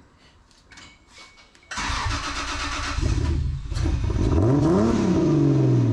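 Toyota 2JZ inline-six swapped into a Mk3 Supra being started, plausibly for the first time: the starter cranks it for about a second, it catches about three seconds in, is revved once with a rising and falling pitch, then settles into a steady idle.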